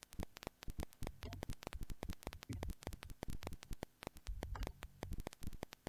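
Dense, irregular crackling clicks with two bursts of low rumble: noise on the camera's own microphone.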